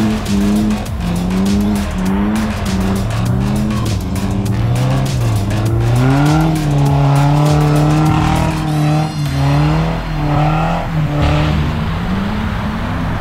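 Jeep Grand Cherokee ZJ engine revving up and down as the Jeep drifts on lake ice, its pitch rising and falling over and over.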